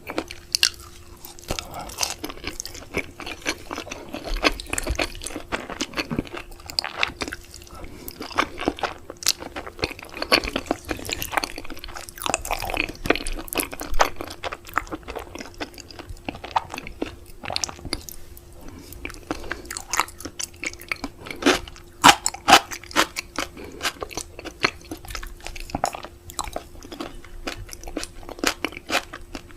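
Close-miked chewing and biting of raw seafood, with a dense, irregular run of sharp crunchy clicks and wet pops.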